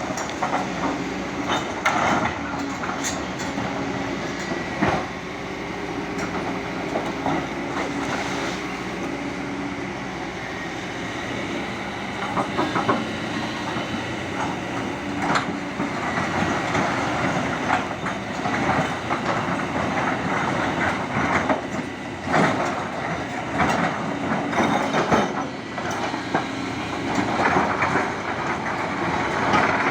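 Kobelco 220 hydraulic excavator working, its diesel engine running steadily with its note shifting as it works. Frequent metallic clanks and knocks come through over it.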